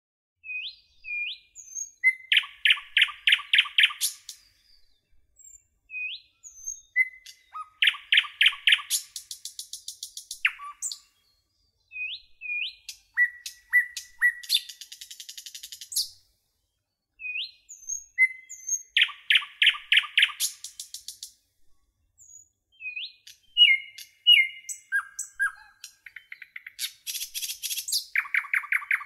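Songbird singing in about five repeated bouts. Each bout has a few short upslurred whistles, then a fast trill of half a dozen notes, often ending in a high buzzy flourish, with brief silences between bouts.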